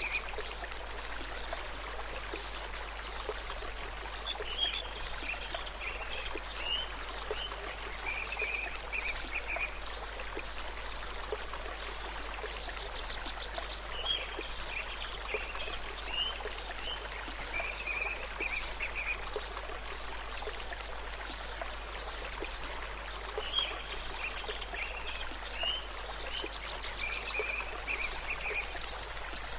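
A stream flowing steadily, with a small bird singing the same short phrase of chirps and trills three times, about every ten seconds.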